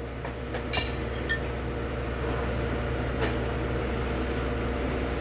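A few sharp clinks of utensils against dishes, the loudest about a second in, over a steady machine hum.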